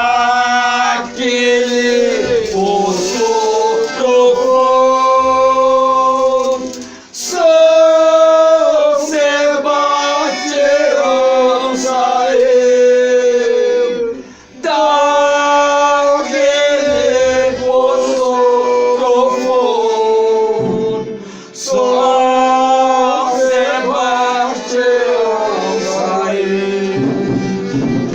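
Folia group singing a devotional verse in long, held notes, in phrases of about seven seconds with brief breaks between them.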